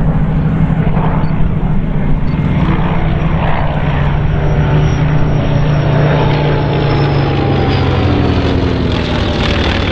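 A formation of Second World War piston-engined fighters, Spitfire, Hurricane, Wildcat and Hawk 75, flying past with their propeller engines droning. Their pitch slowly falls in the second half as they pass.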